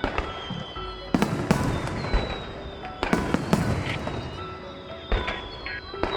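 Aerial fireworks shells bursting in a display, about six sharp bangs with crackle and echo trailing after each, over music playing along with the show.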